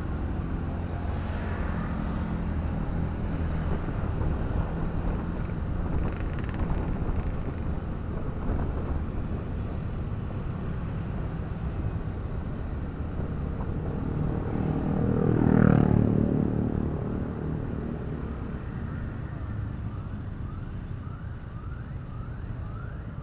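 Motorcycle riding in congested street traffic: steady engine and road noise, with a nearby vehicle swelling loud and passing about two-thirds of the way in. Near the end a short rising siren-like chirp starts repeating, a little under two a second.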